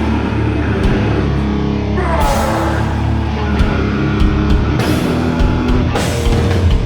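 Live extreme metal band playing loud and dense: distorted guitars and bass over drums, with cymbal crashes about two seconds in and again near the end.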